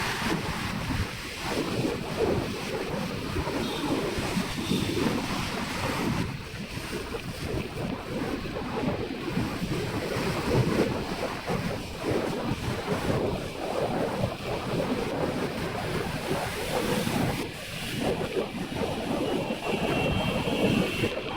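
Wind rushing and buffeting over the microphone on a moving motorcycle, a continuous, fluctuating rumble with vehicle noise underneath.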